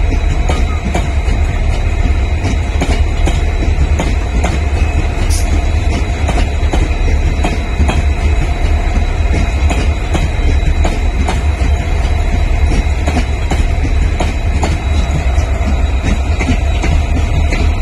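Passenger express coaches rolling past on a departing train, with irregular clicks and knocks from the wheels over rail joints. Under it runs a steady low rumble from idling WDG4 diesel locomotives.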